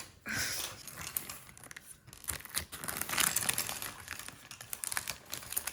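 A plastic Lego parts bag crinkling as a hand rummages through it, with many small clicks of plastic bricks knocking together.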